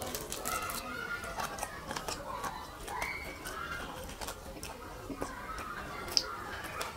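Close-miked chewing of fried fish eaten by hand: wet mouth smacks and small crisp clicks throughout, with one sharper click about six seconds in.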